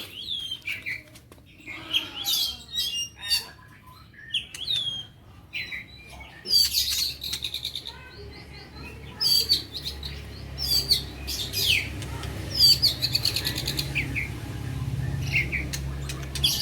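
Songbirds chirping and calling in short, sharp phrases with rapid trills, over a low steady hum that comes in about six seconds in.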